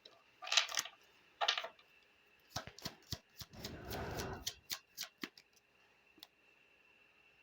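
Oracle cards being handled on a table: two brief swishes of cards sliding, then a run of light clicks and taps with a soft rustle, going quiet for the last two seconds.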